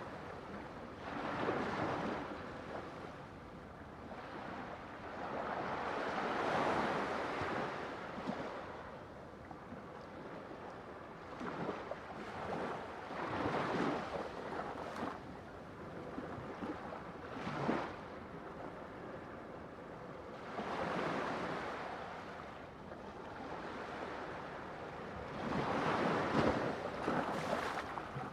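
Ocean waves breaking on a shore, a steady wash of surf that swells and fades every few seconds, with several louder breakers.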